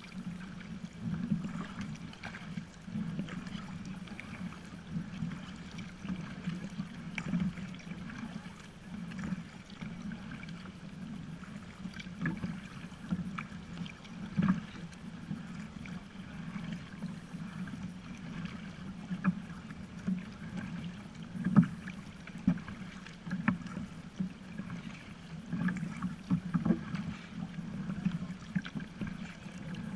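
Kayak under way: paddle strokes and water sloshing against the hull, with scattered sharp knocks of paddle on boat over a steady low rumble.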